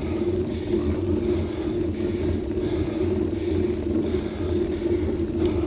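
Steady riding noise of a bicycle on the road, tyre rumble and wind on the microphone, picked up by a bike-mounted action camera, with a constant low hum throughout.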